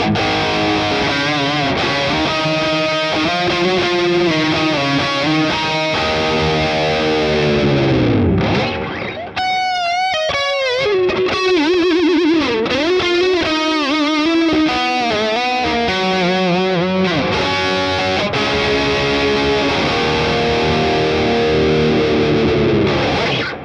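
ESP LTD ST-213 electric guitar played with distortion: riffs and held chords, a deep downward pitch dive about eight seconds in, then wavering vibrato on high notes. The last chord cuts off at the end.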